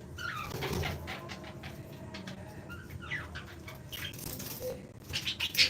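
Aviary birds chirping and chattering in short, quick calls, with louder, sharper chirps near the end.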